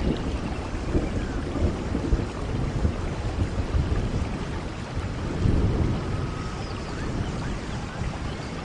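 Steady heavy rain with a low rolling rumble of thunder that swells about halfway through.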